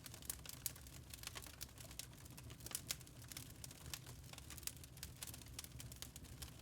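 Log fire crackling in a fireplace: many irregular sharp snaps and pops, a few louder than the rest, over a low steady rumble.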